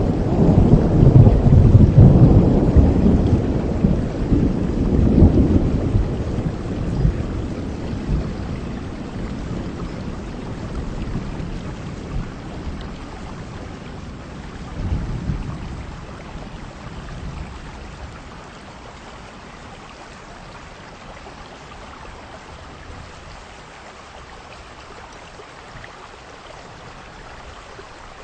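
Heavy rain with a long roll of thunder that is loudest over the first several seconds and dies away, a smaller rumble about fifteen seconds in, then steady rain.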